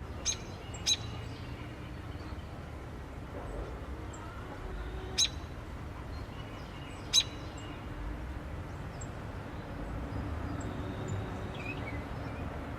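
Day-old baby birds chirping: a few loud, sharp, very short chirps with fainter high peeps between them, over a steady low hum.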